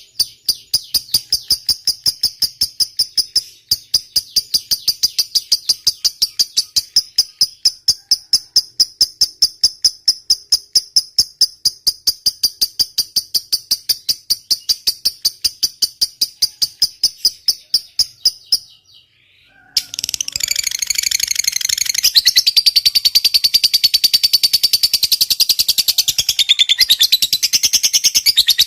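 Lovebird giving its long chattering 'ngekek' call, a rapid unbroken run of sharp high-pitched chirps. It stops about two-thirds of the way in, and after a brief pause a second, denser and louder bout begins.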